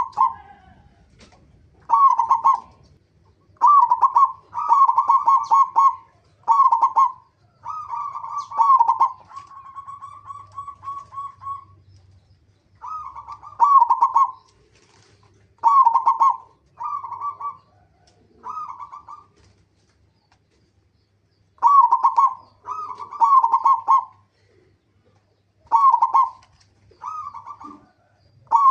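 Zebra dove (perkutut) cooing: short phrases of quick staccato coos repeated every second or two, with one longer rolling trill about ten seconds in and a pause of about two seconds near the two-thirds mark.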